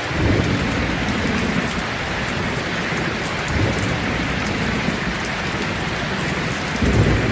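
Steady, heavy rainfall, with low rumbles of thunder swelling near the start and again near the end.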